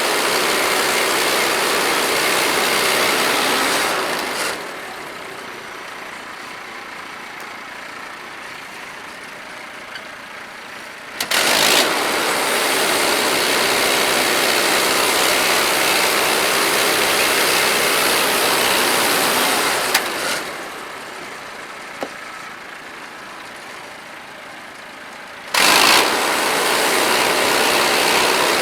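Gas engine of a portable bandsaw sawmill running while slabbing a black walnut log, switching between loud high-throttle stretches and quieter low-throttle stretches. It jumps back up to high throttle suddenly twice, about eleven seconds in and near the end.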